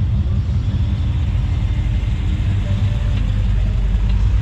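A car engine running slowly close by, a steady low rumble that grows heavier about a second in.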